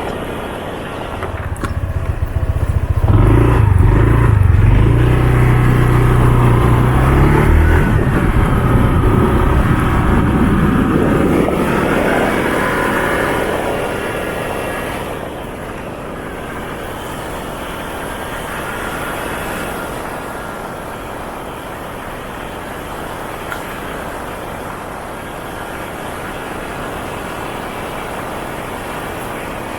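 Motorcycle engine pulling away: the revs rise and step up through the gears over the first ten seconds or so. It then settles into a quieter, steady run.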